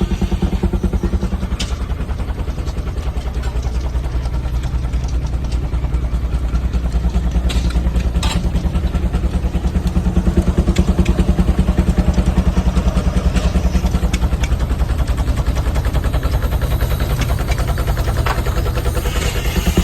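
Steam traction engine running steadily under belt load, driving a sawmill, with a fast even beat and a few sharp clanks.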